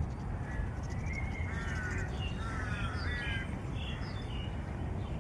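Birds calling in a park: a run of short, pitched calls, several in quick succession from about a second in until near the end, over a steady low background hum.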